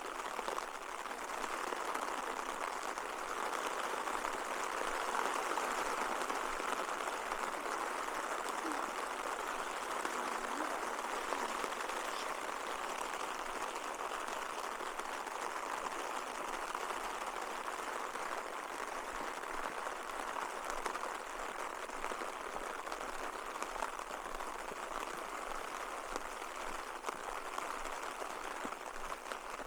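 Steady rain falling, an even hiss of fine drops with no let-up.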